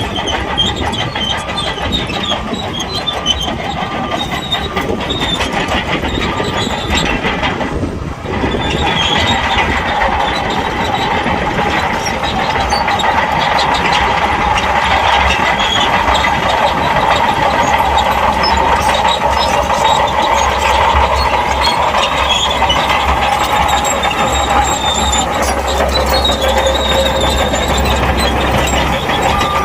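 Shantui crawler bulldozer working: its diesel engine and steel tracks run in a steady, dense mechanical din that dips briefly about eight seconds in.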